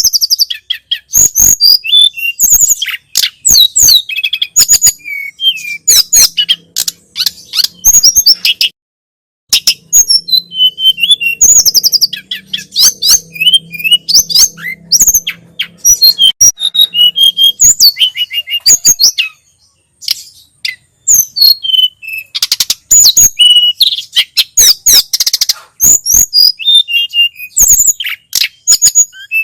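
Tledekan gunung (sulingan gunung) singing a rapid, varied song of high chirps and short whistled notes, with brief pauses twice.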